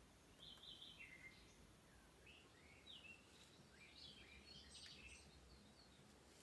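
Faint birdsong: scattered short chirps and quick rising whistles over near-silent room tone.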